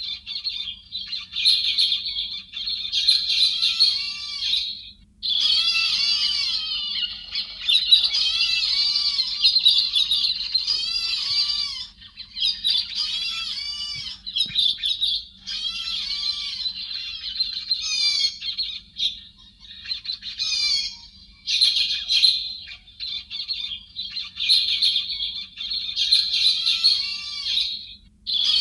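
Recorded song of the héc xoan, a bird of the thrush group, played as a trapping lure: long phrases of rapid, warbling, chattering calls lasting several seconds each, with short breaks between them. A faint steady hum runs underneath.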